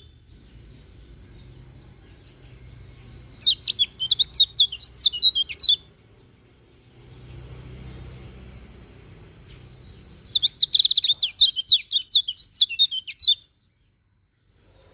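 Kecial kuning, a Lombok white-eye, singing two bursts of rapid, high twittering notes that sweep up and down, each lasting two to three seconds, over a faint low hum; the sound cuts out abruptly near the end.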